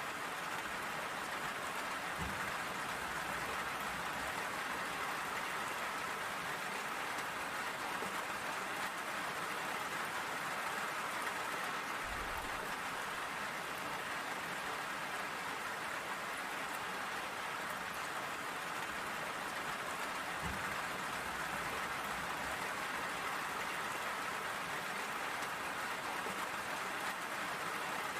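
Steady rain falling and pattering on surfaces, an even hiss with no let-up, with two faint low thuds, one about two seconds in and one near twenty seconds.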